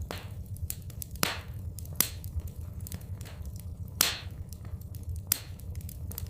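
Wood fire crackling, with frequent small snaps and four louder pops spread through the clip, over a steady low rumble.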